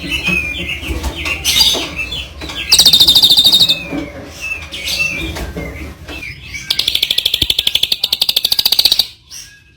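A songbird giving short chirps, then two loud, very fast rattling trills: a brief one about three seconds in and a longer one lasting about two seconds from about seven seconds in. These are the rapid-fire 'tembakan' bursts that song-contest keepers train their birds with.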